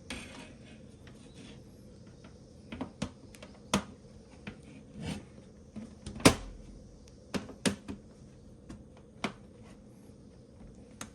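Irregular knocks and clicks of camping gear being handled and set in place, the loudest about six seconds in.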